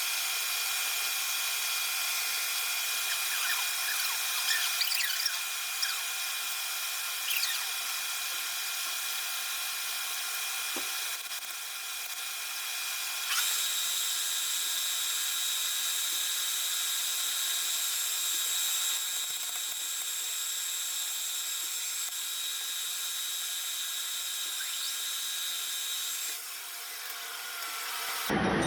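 CNC lathe machining the corrosion off a metal rod: a steady, high-pitched whine of several held tones. A stronger, higher tone joins about halfway through, and the sound drops slightly near the end.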